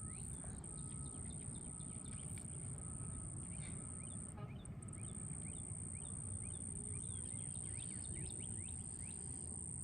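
Outdoor nature ambience: many small birds chirping, and a short call repeated about every three-quarters of a second in the first half. A steady high-pitched tone runs throughout, with a brief break near the middle, over a faint low background rumble.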